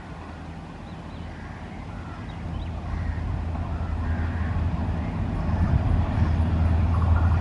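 Rajdhani Express train approaching through a station at speed without stopping: a low rumble from the locomotive and wheels that grows steadily louder.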